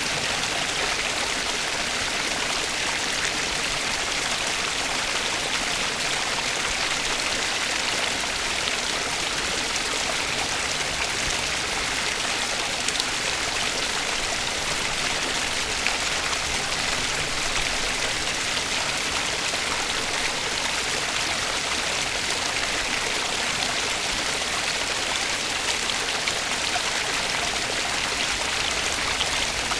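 Flowing water running steadily, an even rushing hiss with no change in level.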